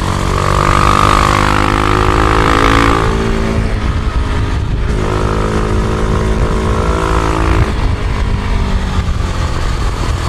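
Husqvarna Vitpilen 701 single-cylinder engine running steadily, with its revs shifting a couple of times.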